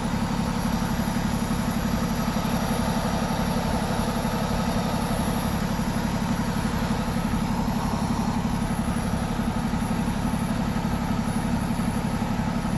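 A vehicle engine idling steadily, with an even low pulsing.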